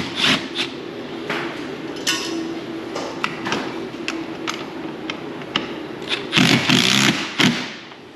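Hand tools and metal parts knocking and clinking irregularly during work on a race car, over a steady low hum. A louder burst of clatter comes a little after six seconds in.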